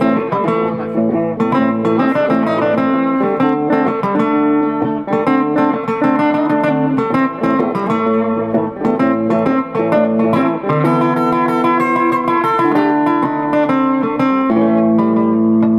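Acoustic guitar playing blues, a run of picked notes mixed with chords.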